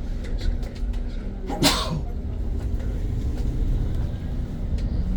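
Steady low rumble of a battery-electric BYD BD11 bus under way, heard from on board. A sudden short, sharp noise cuts through about one and a half seconds in.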